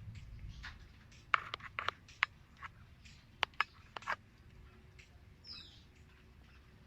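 A string of small, sharp clicks and ticks, about a dozen over three seconds, then a brief high squeak.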